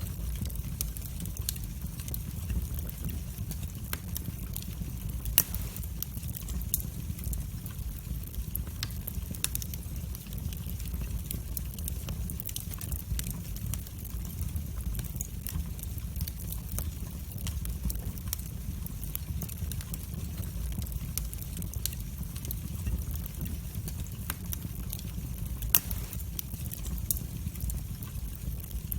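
Wood fire burning in a fireplace: a steady low rumble of the flames with frequent sharp crackles and pops, two louder pops about five seconds in and near the end.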